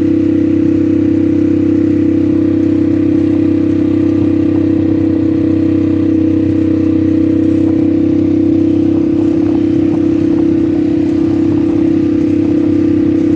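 ATV engine running at a steady speed under way, a constant loud drone that neither rises nor falls.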